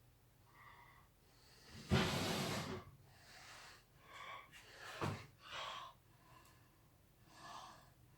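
A man breathing close to the microphone, with a loud, sharp exhale about two seconds in and softer breaths after it. A single sharp click comes about halfway through.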